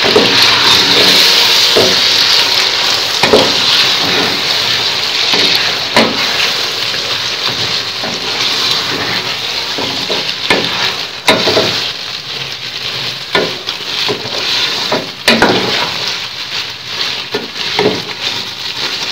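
Chicken pieces sizzling as they fry in hot oil in a metal pot, freshly coated with ginger-garlic paste and being browned, while a wooden spatula stirs them. The spatula knocks and scrapes against the pot every few seconds.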